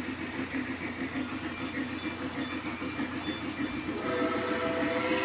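Lionel Legacy Berkshire 2-8-4 O-gauge model steam locomotive's sound system running with a rapid, even chuff rhythm; about four seconds in its steam whistle starts to blow, a steady chord of several tones.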